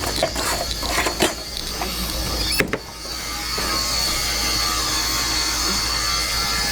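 Mechanical clattering and knocks. Then, about three seconds in, a steady machine noise with a constant high whine takes over.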